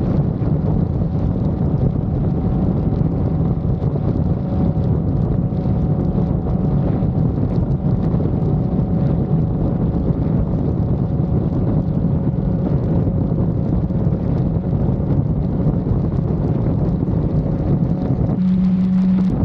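Motorcycle riding at a steady pace, its engine running under heavy wind buffeting on the helmet or body-mounted camera microphone. A brief steady low tone sounds near the end.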